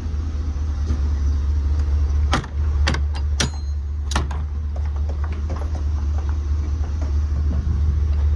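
Isuzu NPR truck's 6.0-litre LPG engine idling with a steady low rumble, with a few sharp clicks or knocks between about two and four seconds in.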